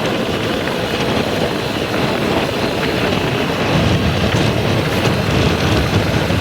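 Heavy diesel engine running steadily, with wind buffeting the microphone; the low rumble grows stronger about four seconds in.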